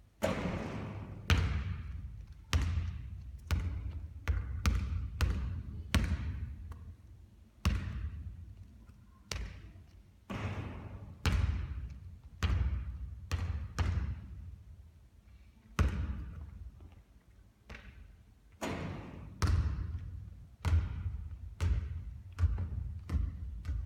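Basketball bouncing on a court floor again and again during repeated three-point shooting: a long run of irregular sharp thuds, roughly one a second, each with a short echo.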